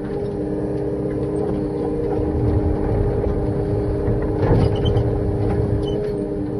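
Hydraulic chainsaw kit and the machine powering it running with a steady drone and a steady two-note hum, with a louder, noisier surge about four and a half seconds in.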